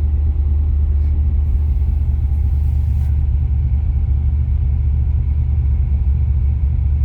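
LS V8 engine in a Porsche 951, idling steadily with a low rumble during its cold-start warm-up, still on a raised idle that is just starting to settle down.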